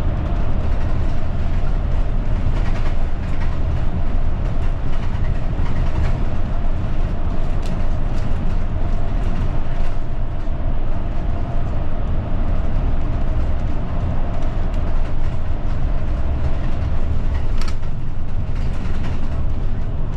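Inside a route bus on the move: steady low engine and road rumble with a faint even whine, and a couple of brief rattles.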